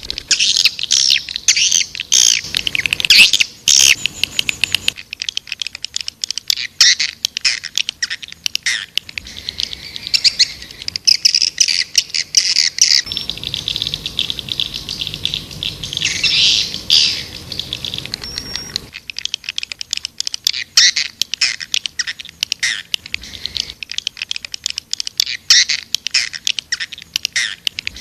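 Swiftlet calls: a dense, fast, high-pitched twittering and clicky chatter, the kind of recorded call track played to lure swiftlets into nesting houses. The pattern changes abruptly at about 5, 13 and 19 seconds, as between spliced sections.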